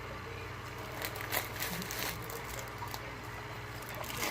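A person eating and drinking: a cluster of soft clicks and rustles about a second in, over a steady low electrical hum.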